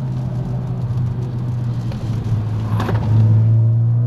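Car engine running steadily while driving, heard from inside the cabin. About three seconds in there is a knock, after which the engine note drops slightly in pitch and gets louder.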